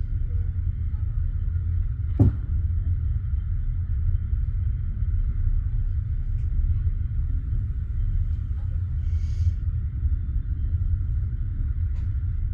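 Steady low rumble inside a passenger train carriage, with one sharp knock about two seconds in and a brief hiss near the middle.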